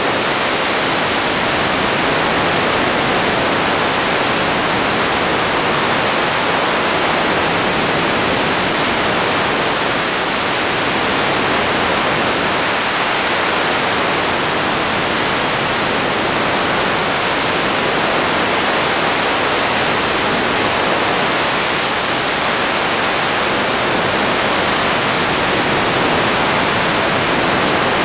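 Radio static: a steady, even hiss of noise with no tones or voices.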